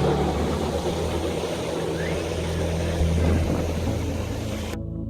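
A passing train running by, a steady rumble with a low hum. Near the end it cuts off abruptly and electronic background music begins.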